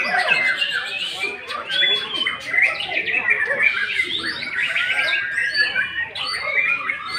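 White-rumped shama (murai batu) singing a fast, unbroken run of varied whistles, slurred glides and chirps.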